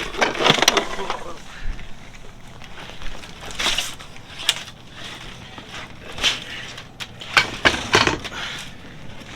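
Scattered rustling and knocking of handling, in short bursts a second or more apart, while a large catfish is weighed in a landing net.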